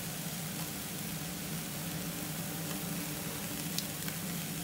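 Diced onions sizzling gently in a hot non-stick griddle pan, over a steady low hum. Near the end there is a light tap as a piece of raw chicken is dropped into the pan.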